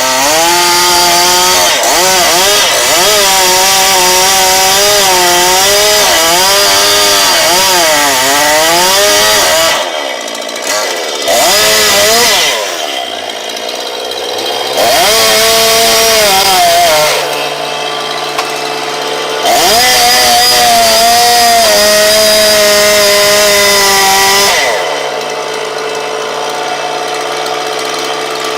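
Chainsaw cutting wood in four bursts of full throttle, its pitch wavering and dipping under load. Between the bursts, and from about three-quarters of the way through, it drops back to a steady idle.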